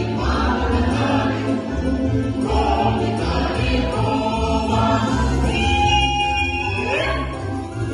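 Cossack song ensemble singing in chorus over a low instrumental accompaniment, with a high note held for about a second and a half near the end.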